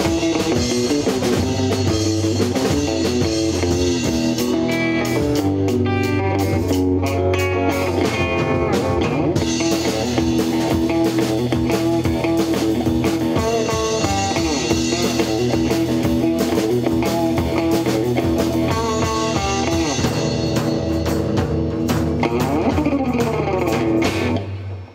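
Rock music played on guitar and drums, with no singing, that cuts off abruptly near the end.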